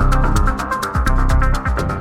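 Minimal techno track: a steady electronic beat with fast, even hi-hat ticks over a deep bass line and synth tones.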